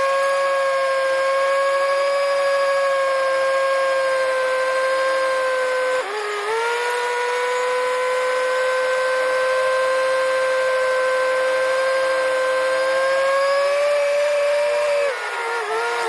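Tractor backhoe's machinery giving a steady high-pitched whine, dropping briefly in pitch about six seconds in and again near the end as the load changes.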